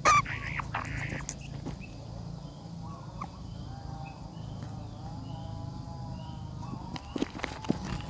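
Nestlings begging in the nest: a run of harsh, hissy calls in the first second, then fainter wavering calls, with a few knocks near the end.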